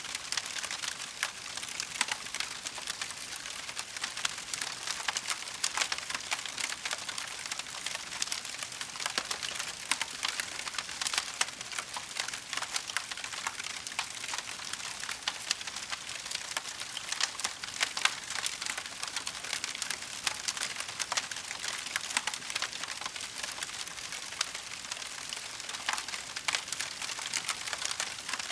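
Wood fire burning in a fireplace: a steady soft hiss with dense, irregular small crackles and pops throughout.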